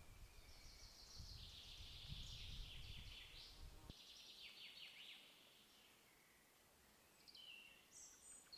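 Faint songbird singing: a long run of rapid chirping notes for the first five seconds, then a few short high calls near the end. A low rumble underneath stops abruptly about four seconds in.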